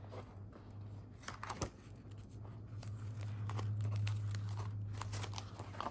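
Crinkling and light clicking as a small savings binder is handled, over a low steady hum.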